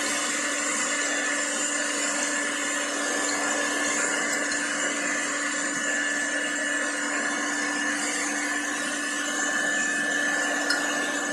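Handheld electric hair dryer running continuously, a steady whirring blow of air with a constant motor hum. There is a small tick near the end.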